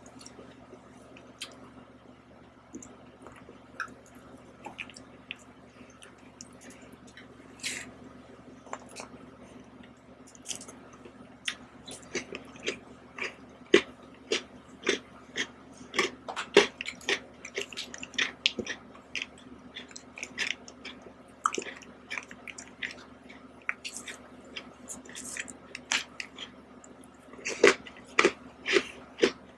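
Close-miked mouth sounds of a person eating ice cream: wet smacks and chewing, sparse at first and then coming in quick runs over the second half.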